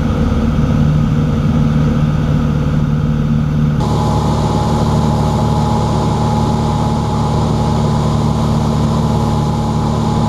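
Cessna 182's piston engine and propeller running steadily at reduced power, a constant low drone heard from inside the cockpit. About four seconds in the sound widens and a steady higher tone joins it.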